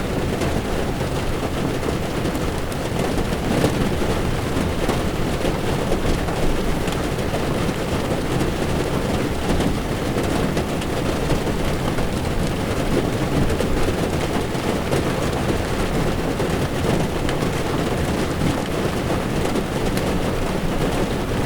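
Heavy rain falling on a car's windshield while its tyres run on a wet road, a steady noise with a low rumble from the moving car underneath.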